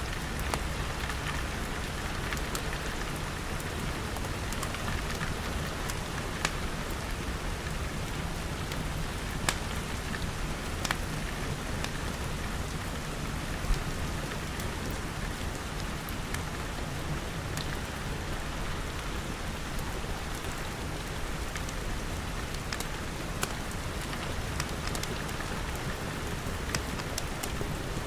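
Steady rain pattering on glass, with scattered sharp crackles from a wood fire.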